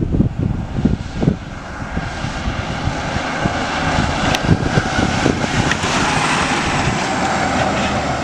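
Propeller-driven fixed-wing aircraft flying over. Its engine drone grows louder to a peak a little past the middle, then eases slightly.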